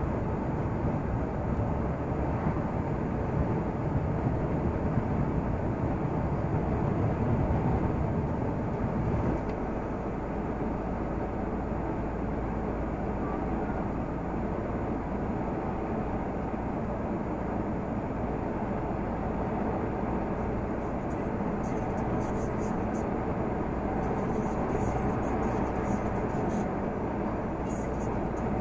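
Renault Magnum 480 truck's straight-six diesel engine running steadily on the move, with road noise. About nine seconds in the deep drone drops and changes; faint crackling comes in near the end.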